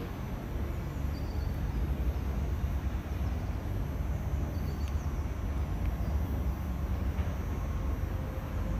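Stadler WINK bimodal multiple unit pulling away into the distance, heard as a low, steady rumble.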